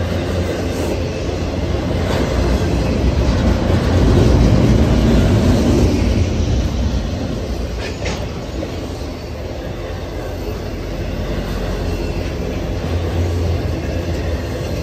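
Intermodal freight train's loaded container and trailer cars rolling past close by: steel wheels on rail make a steady low rumble that swells about four seconds in. A brief high-pitched metallic sound cuts through about eight seconds in.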